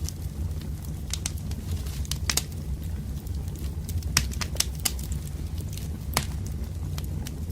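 Burning firewood crackling, with a dozen or so sharp pops and snaps at irregular intervals over a steady low rumble of the fire.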